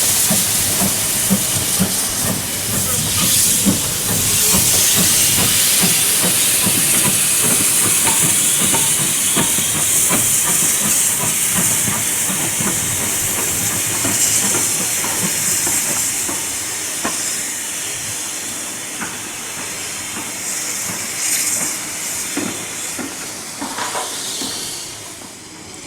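Steam locomotive hissing loudly as steam escapes steadily, with rapid light knocking underneath during the first half. The hiss dies down near the end.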